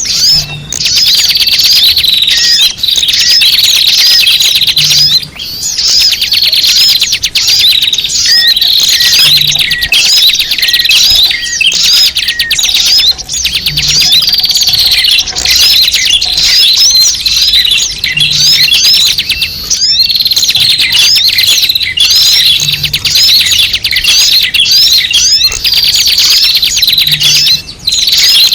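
Dense, unbroken chatter of many small birds chirping and twittering rapidly: a bird-lure (pikat) call recording of noisy small birds.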